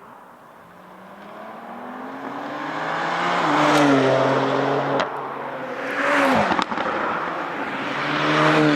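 Porsche 992 GT3 RS's naturally aspirated flat-six, through a loud aftermarket exhaust, building in pitch and loudness as the car approaches under acceleration. Its note drops in pitch as it passes. A sharp crack comes about five seconds in, and another swell and drop of engine sound follows near the end.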